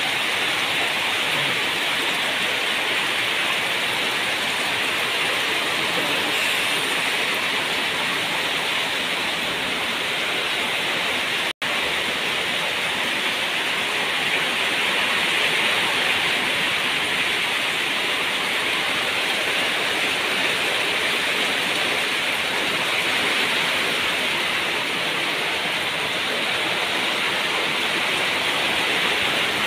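Heavy rain pouring steadily onto a corrugated metal roof and wet concrete. It drops out for an instant about twelve seconds in.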